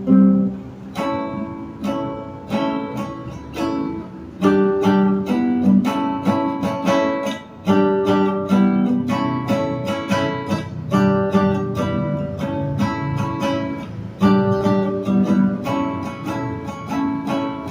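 Instrumental passage of a song: a guitar strummed and picked in a steady rhythm, with no singing.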